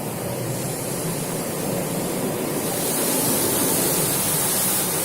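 Automatic car wash spraying water over the car, heard from inside the cabin: a steady rush of spray that swells over the first few seconds, with the hiss loudest in the second half.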